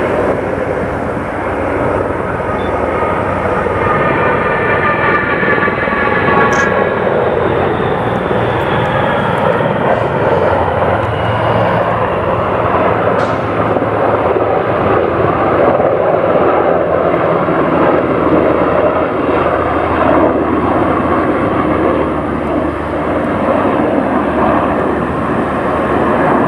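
Military aircraft engines running loud and steady as the aircraft passes. An engine whine slides down in pitch a few seconds in and rises again near the end.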